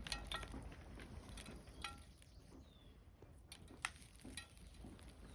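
Faint, scattered clicks and light clinks of gritty bonsai soil with perlite and bark being handled and settled around a tree in a ceramic pot. A few of the clicks ring briefly.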